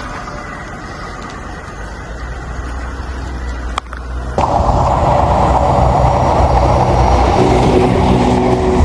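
A model train running on the layout's track: a steady rattle of wheels and motor. There is a single click a little under four seconds in, and the sound becomes suddenly louder just after.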